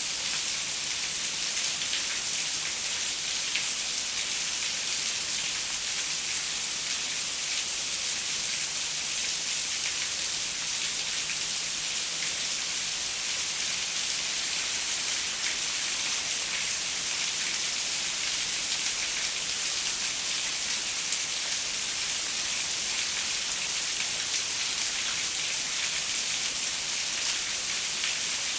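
Steady rain falling, a dense even hiss of many fine drops, tapping on a window pane.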